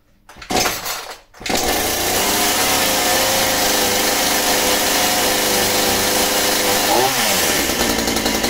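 Scheppach CSP41 41 cc two-stroke chainsaw being pull-started: a short burst about half a second in, then the engine catches about a second later and runs steadily. About 7 s in its pitch dips briefly and recovers. It is a cold first start on the choke, and the engine seems to need warming up.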